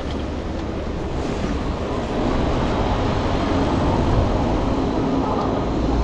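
Steady wind rumble and road noise while riding a folding bicycle through city streets, growing a little louder about two seconds in.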